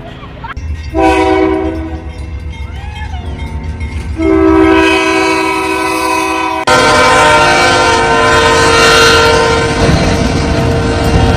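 Locomotive air horn blowing over the low rumble of a train. There is a short blast about a second in, a longer blast from about four seconds, then a long held blast.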